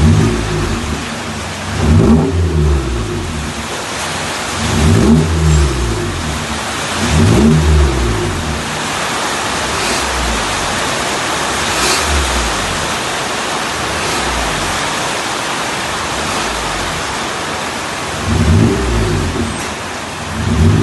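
Toyota Vellfire's engine through an aftermarket exhaust, blipped in short revs that rise and fall back to idle, about five times, with a longer idling stretch in the middle.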